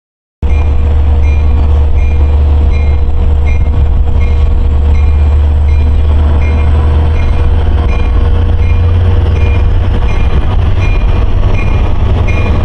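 Long Island Rail Road train rumbling loudly at a grade crossing, starting abruptly about half a second in, while the crossing bell dings steadily about one and a half times a second.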